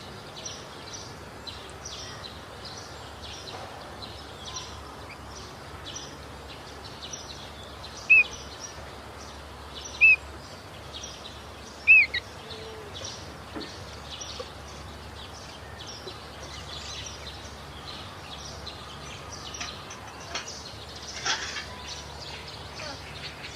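Sooty-headed bulbul (kutilang) giving three short, loud chirps about two seconds apart, over a steady high-pitched chatter in the background.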